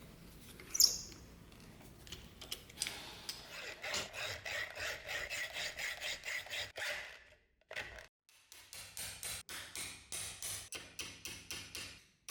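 Rapid back-and-forth rubbing strokes of a hand abrasive tool on a workpiece, about four strokes a second, in two runs with a short break between them. A single sharp click comes about a second in.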